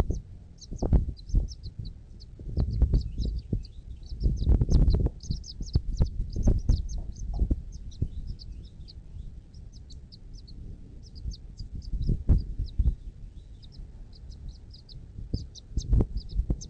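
Small birds chirping in quick, high-pitched, continuous runs. Loud low thumps and rumbles come at intervals and are the loudest sounds.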